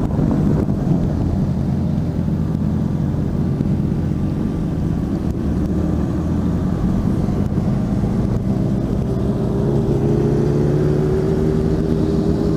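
Honda CB650F inline-four engine running while riding, with wind rushing on the microphone. In the last few seconds the engine note slowly rises as the bike speeds up.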